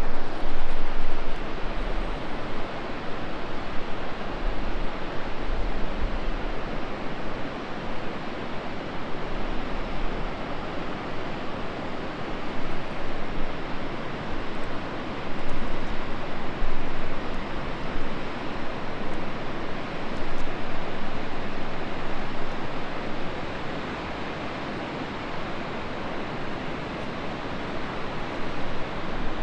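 Rushing water of a river in full flow: a steady, even rush with no breaks.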